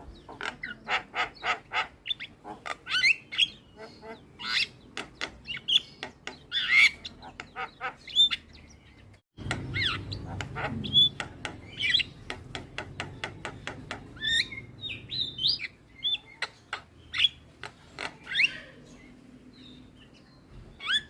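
Javan myna (jalak kebo) singing: fast runs of sharp clicks mixed with chattering chirps and short whistled notes. The sound cuts out completely for a moment about nine seconds in, then picks up again.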